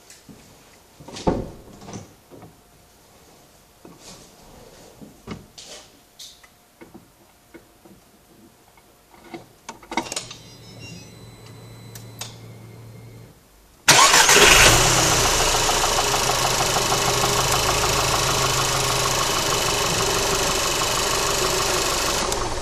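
Faint clicks at first, then a low hum for a few seconds. About fourteen seconds in, a 1.8 TSI turbocharged four-cylinder petrol engine starts abruptly and runs steadily at idle, growing slightly quieter. The owner says this engine has an unexplained knock.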